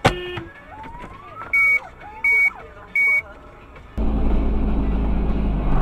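A sharp bang, followed by three short, loud, high beeps about three-quarters of a second apart. From about four seconds in, a loud steady low rumble of a vehicle on the move sets in.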